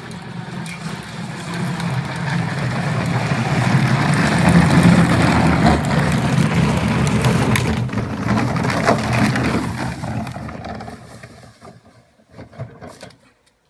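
Plastic ride-on toy tractor rolling down a steep hill, its hard plastic wheels rumbling and rattling over the ground. The noise grows louder, then dies away about eleven seconds in, with a few sharp knocks around eight seconds.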